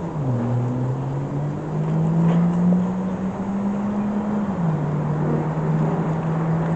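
Honeybees buzzing around an open hive: a loud, steady hum that slowly rises in pitch, then drops sharply about four and a half seconds in.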